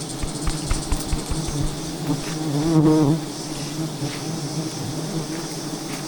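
A swarm of giant honey bees buzzing around the microphone in a steady drone. It swells louder for about half a second midway through as a bee flies close past.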